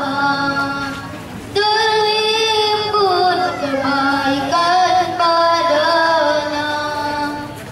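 A boy singing into a microphone, long held melodic notes that glide between pitches, with a short break about a second in before the singing comes back louder.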